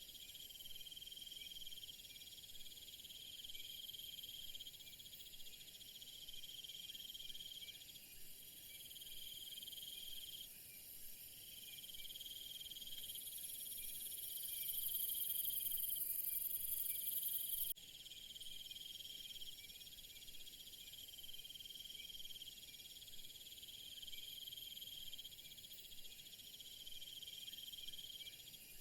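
Crickets and other insects chirping steadily in overlapping high trills, with a louder, higher insect buzz joining for about five seconds in the middle and cutting off suddenly.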